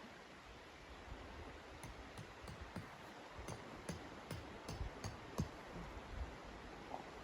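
Faint, irregular sharp clicks, about a dozen over a few seconds, mixed with soft low knocks over a steady low hiss.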